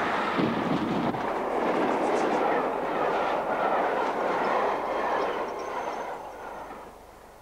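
Passenger train rushing past at speed on the track, the noise dying away over the last second or two as it passes.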